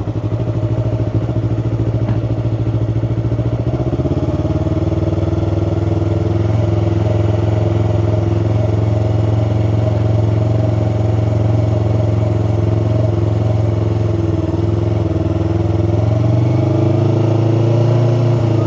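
Yamaha R3 parallel-twin engine running in first gear at steady low revs while riding, picking up in pitch over the first few seconds and again near the end, heard from a helmet-mounted mic.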